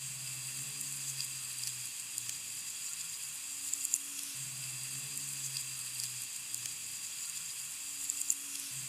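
Steady rain falling, an even fine hiss with scattered small drop ticks, and a faint low hum coming and going underneath.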